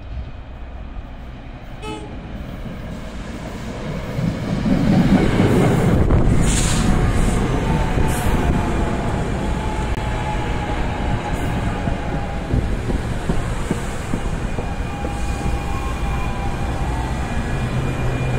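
A passenger train passing close by: a wheel-on-rail rumble swells to full loudness about five seconds in and keeps going. Faint steady whining tones run over it.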